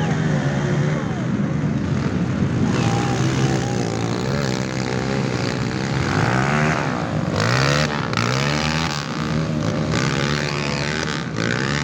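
Off-road motorcycle engines revving in mud, their pitch repeatedly climbing and dropping, with two sharp rev-ups a little past the middle.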